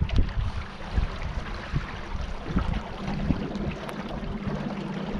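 Small boat on a river: water moving against the hull and wind buffeting the microphone in irregular low thumps. A steady low hum comes in about three seconds in.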